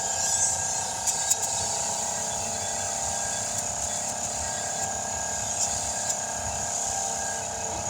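Steady hum of a running motor with a continuous high hiss; a brief louder hiss in the first half-second.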